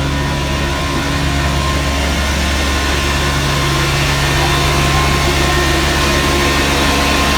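Vacuum truck's engine and vacuum pump running steadily under load: a low engine drone under a constant rushing hiss of air. The hiss grows slightly stronger about halfway through.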